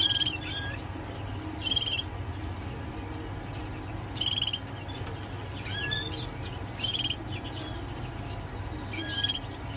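Caged finches calling: a buzzy, rapidly pulsed trill repeated five times, about every two seconds, with scattered short chirps in between.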